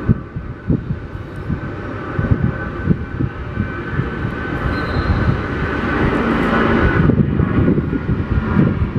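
Jet engine noise from a Boeing 777-200ER's twin Rolls-Royce Trent 892 turbofans at takeoff thrust. A deep, crackling rumble runs under a steady high fan tone, growing louder, then drops off sharply about seven seconds in.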